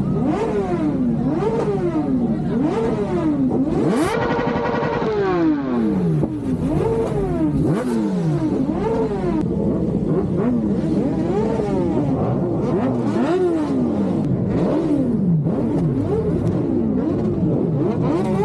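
Superbike engine being revved hard and repeatedly, its pitch rising and falling about once a second, held at high revs once for about a second before dropping back.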